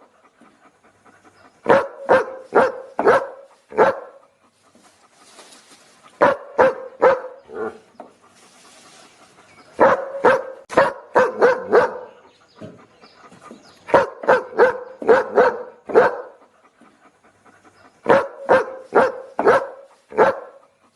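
A dog barking in quick runs of about four to six barks, with short pauses between the runs, repeating five times.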